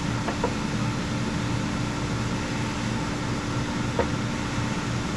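Steady hum and whoosh of a machine running, with two light metallic clicks, one just after the start and one about four seconds in.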